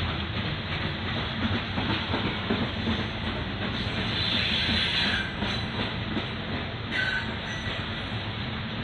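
Loaded coal hopper cars rolling past on steel rails: a steady rumble and rattle of wheels on track. Two short, high-pitched wheel squeals come about five and seven seconds in.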